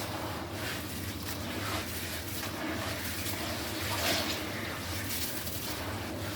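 Black stone being crushed in water, crumbling apart with continuous irregular wet crackling and a louder crunch about four seconds in.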